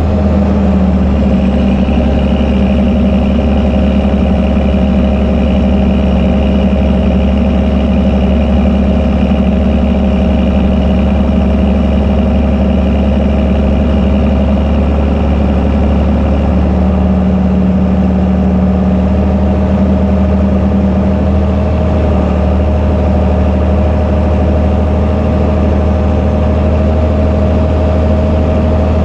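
Fendt Favorit 926 Vario tractor's six-cylinder turbo diesel running steadily through an open exhaust pipe, holding an even engine speed while it compacts haylage.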